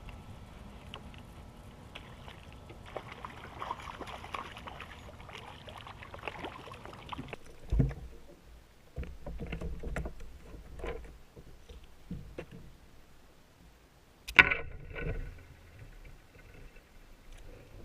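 Handling noises in a fishing kayak on the water: rustling and water movement, then scattered knocks against the hull. One sharp, loud knock comes about fourteen seconds in.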